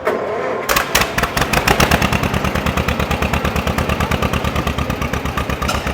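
John Deere two-cylinder tractor engine starting up: it catches in under a second, then runs with a fast, even popping exhaust, about ten pops a second.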